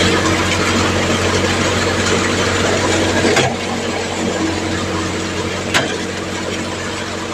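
John Deere 5050D tractor's three-cylinder diesel running steadily under load, driving an NVT multicrop thresher as it threshes chickpeas, engine hum and the thresher's rushing noise together. Two sharp knocks cut through, about three and a half seconds in and again near six seconds.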